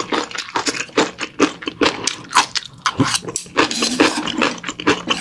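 Close-miked chewing of a mouthful of bibimbap with fresh radish salad and yeolmu kimchi: many short crunches and wet clicks in quick succession.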